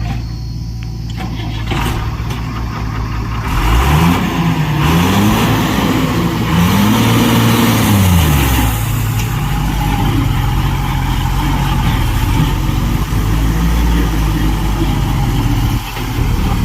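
Heavy diesel engine running, revved up and back down about three times between roughly four and nine seconds in, then settling back to a steady run.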